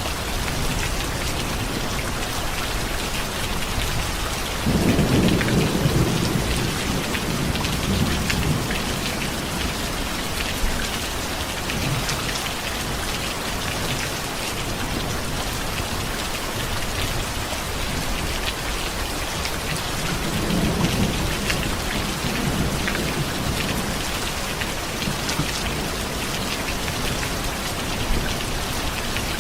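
Steady heavy rain hissing on surfaces, with thunder: a low rumble breaks in suddenly about five seconds in and rolls on for a few seconds, and a fainter rumble comes about two-thirds of the way through.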